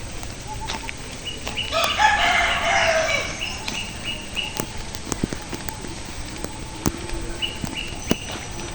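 A rooster crows once, about two seconds in, a call of roughly a second and a half that drops in pitch at the end.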